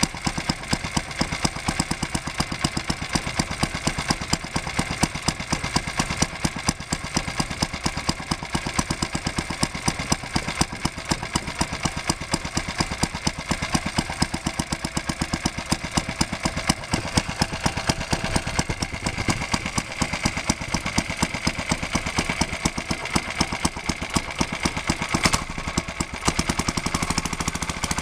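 Small single-cylinder petrol engine of a model locomotive's generator set running steadily, with a fast, even firing beat. Near the end the beat changes and turns smoother.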